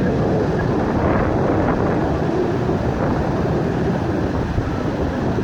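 Steady wind rumbling on the microphone at the shore, with ocean surf washing behind it.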